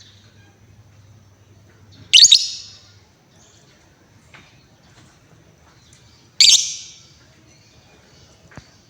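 Female Paskun lovebird giving two loud, short calls about four seconds apart, each fading quickly, with a few faint chirps between them.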